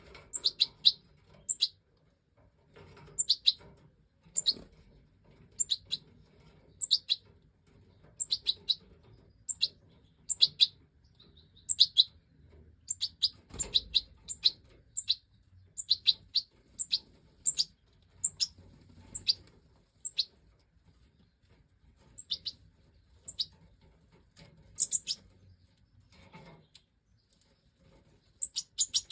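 European goldfinch of the large Stieglitz Major form calling: short, high chirps, singly and in quick pairs, about once or twice a second, with a soft knock about 14 seconds in.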